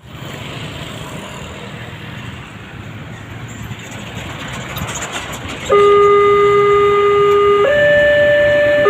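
Rumble of a train nearing a level crossing. About six seconds in, a loud two-note train horn starts, holding a low note and then stepping up to a higher one.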